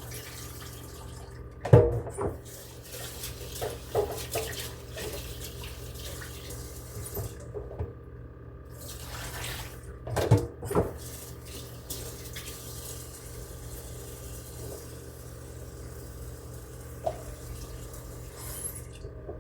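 Kitchen tap running into the sink while rice is washed, the water stopping briefly about halfway through and again near the end. A few sharp knocks, loudest about two seconds in and again around ten seconds, sound over a steady low hum.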